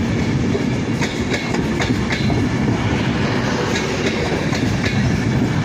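Class 390 Pendolino electric train pulling out of the station, its wheels clicking over rail joints and points several times a second above a steady rumble.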